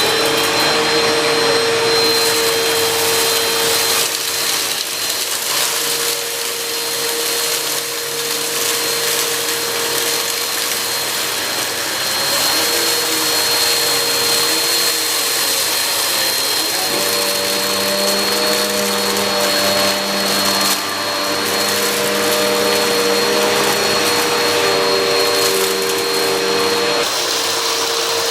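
Bagless upright vacuum cleaner (Swivel, also sold as the Black & Decker Air Swivel Lite) running loud, a steady high motor whine over a rushing hiss, as it picks up a test mess. Lower tones waver and shift as it is pushed about, changing noticeably about two-thirds of the way through.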